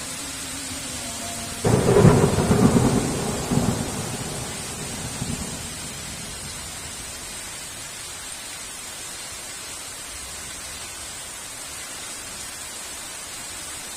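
A thunderclap breaks in suddenly about two seconds in, then rumbles in a few swells and fades out over the next four seconds. Steady heavy rain hisses underneath throughout.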